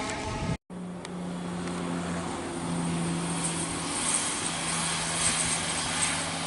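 A train's running noise cuts off abruptly just after the start, followed by a steady low droning hum with an even pitch over a background hiss.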